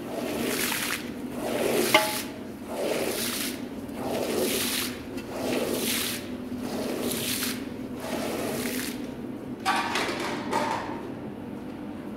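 Water-soaked rug being washed, the wet sound coming in even strokes about once every second and a bit.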